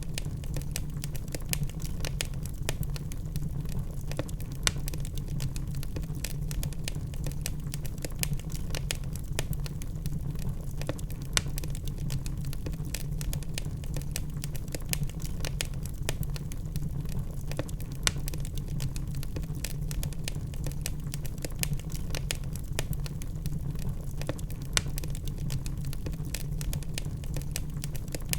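Wood fire burning in a fireplace: constant dense crackling with occasional louder pops, over a steady low rumble.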